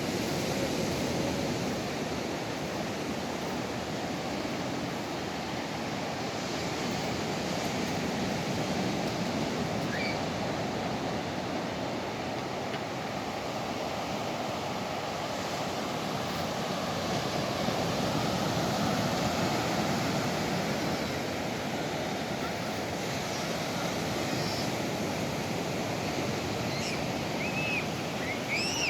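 Steady rushing of water, an even wash of noise with no break, and a few short high chirps near the end.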